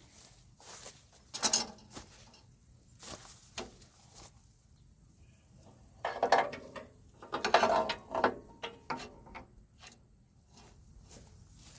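Irregular metallic clicks, clanks and rattles of farm equipment parts being handled and fitted, with louder bouts of clattering about a second and a half in and again from about six to nine seconds in.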